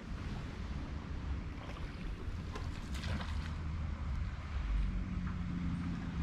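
Wind rumbling on the microphone over the wash of river water around a raft, with a spell of light splashing in the middle.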